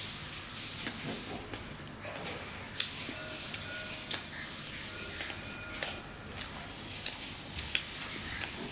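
Close-up eating sounds: a man chewing tandoori roti with mutton curry, with sharp, irregular mouth clicks and smacks one or two times a second.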